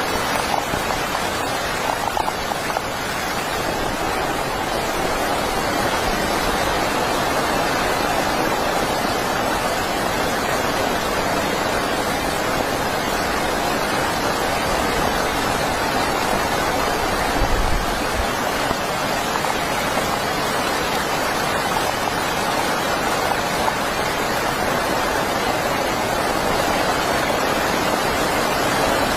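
Heavy rain falling, a steady even hiss with no let-up. A brief low thump comes a little past halfway.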